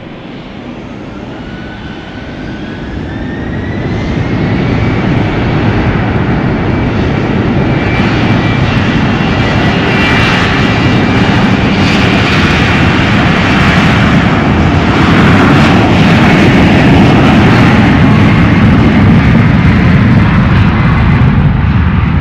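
Airliner engines growing steadily louder and then staying loud as the aircraft comes close. A high whine rises in pitch over the first few seconds.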